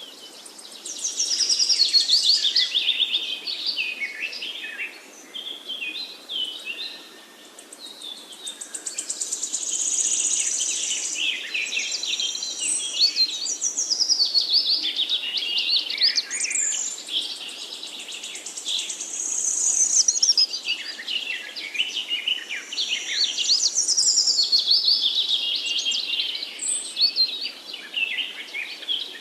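Birds singing and chirping: a dense, almost unbroken run of high chirps, trills and whistled sweeps, quieter for a moment about six to eight seconds in.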